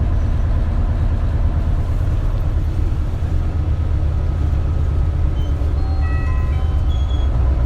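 Isuzu Erga (KL-LV280L1) city bus's diesel engine running under way, a steady low drone heard from inside the passenger cabin. About two thirds of the way through, a short run of high electronic tones stepping between pitches sounds over it.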